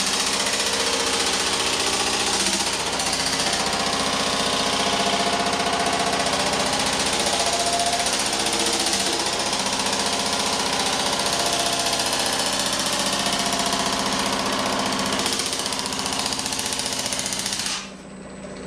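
Pullmax reciprocating machine hammering rapidly as sheet metal is run through its custom dies, a fast steady clatter that stops abruptly about 18 seconds in, leaving the motor humming.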